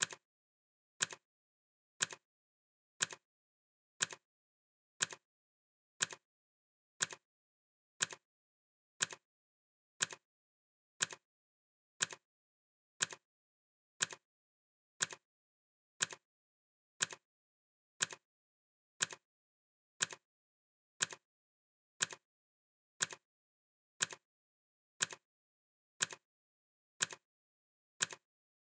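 Clock ticking steadily, one sharp tick each second with silence in between.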